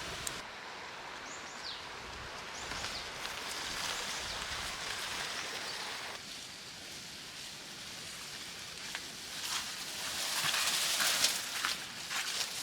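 Steady rain falling, with rustling and small clicks growing louder in the last few seconds.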